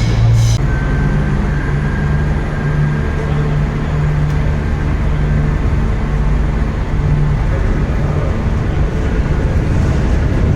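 Train wheels squealing on the rails, cutting off about half a second in, then a train's steady low rumble with a humming tone.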